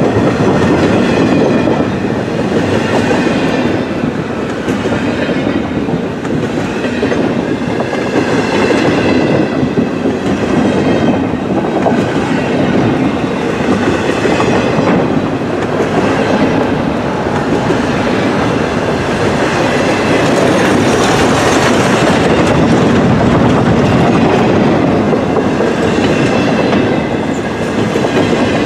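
Double-stack intermodal freight train passing close by: the steel wheels of its container-loaded well cars rolling on the rails in a steady, loud rolling noise that swells slightly as the cars go past.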